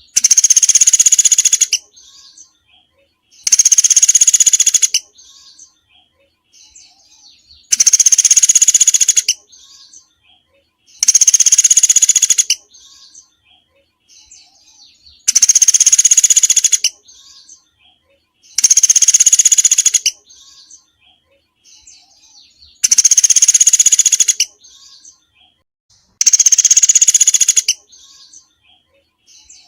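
Recorded small-songbird song: a loud, high, buzzy phrase about a second and a half long repeated every three to four seconds, with faint soft chirps in between.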